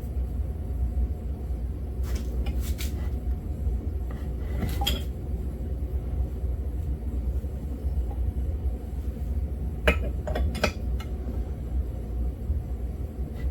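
Metal clinks and clicks of a wrench working the bolt of a crankshaft tool on a YZ80 two-stroke engine case, a handful of sharp clinks spread out over a steady low hum, as the crankshaft is drawn in to seat.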